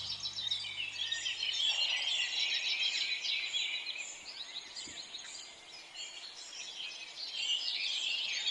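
Many small birds chirping together in a dense, continuous chorus, busier in the first half and thinning a little in the middle before picking up again.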